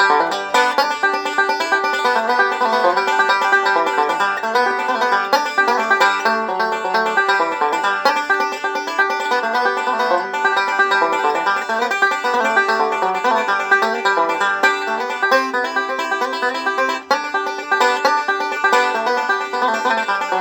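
Five-string banjo picked bluegrass style, a steady stream of quick plucked notes with no other instruments or singing.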